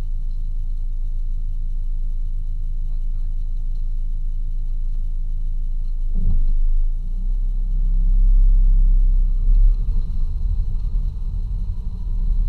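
Jeep Cherokee KJ's engine idling steadily, heard from inside the cabin. About seven seconds in it gets louder and rougher and stays that way, unevenly, to the end.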